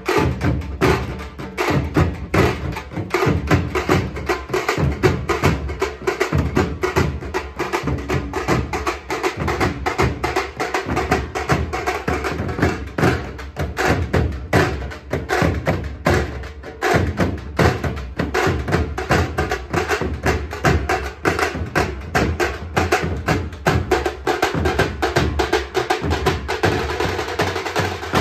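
Tasha drum band playing a fast, unbroken rhythm: rapid sharp stick strokes over deep drum beats.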